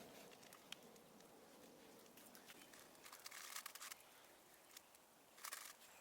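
Near silence: faint outdoor background with a few small clicks and two brief rustles, one in the middle and one near the end.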